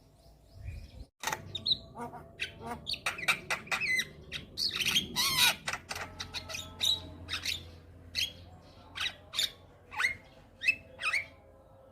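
Javan myna (jalak kebo) singing: a rapid string of sharp, harsh squawks and clicks mixed with short notes that slide down in pitch. The calls are densest about five seconds in, after a brief pause near the start.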